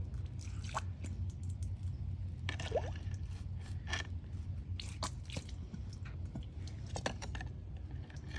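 Small wet squishes, drips and clicks from water and wet sand in a homemade pipe toilet, scattered irregularly over a steady low hum, with a short rising squeak about three seconds in.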